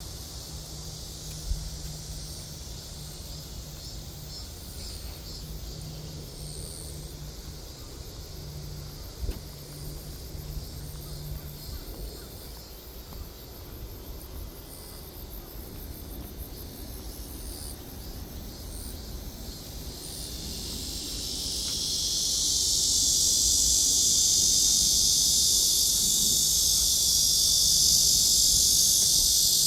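Insects calling: thin high chirping at first, then about two-thirds of the way in a dense, high-pitched buzzing chorus swells up and stays loud. A faint low hum comes and goes early on.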